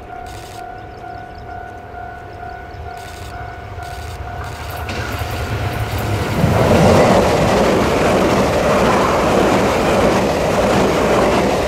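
A Taiwan Railways Tze-Chiang limited express train passes a level crossing at speed. Its rumble and rushing wheel noise build over the first few seconds and turn loud about six seconds in. A level-crossing warning signal sounds a steady two-note tone under the approach for the first five seconds.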